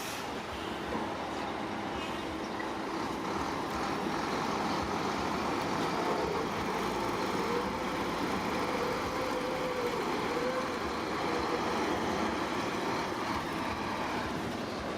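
Heavy diesel construction machinery running steadily, with a faint wavering whine partway through.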